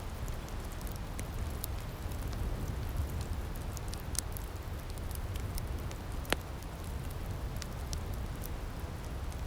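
Outdoor firepit crackling, scattered sharp pops over a steady low rumble, with one louder pop about six seconds in.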